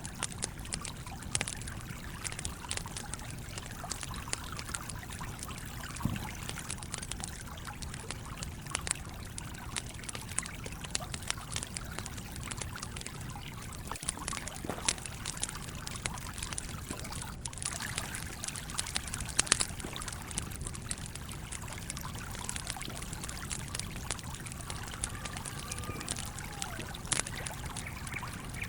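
A stream trickling steadily, with frequent crackles and pops from a wood campfire over it.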